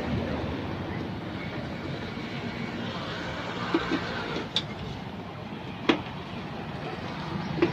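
Steady rumbling background noise with a few short, sharp metallic clicks and clinks scattered through it.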